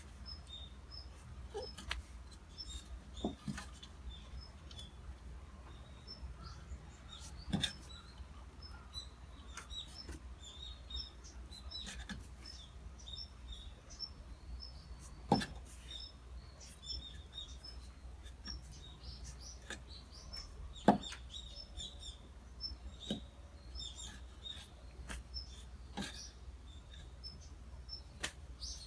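Small birds chirping, many short high chirps throughout, with a few sharp knocks about a quarter, halfway and two-thirds of the way through.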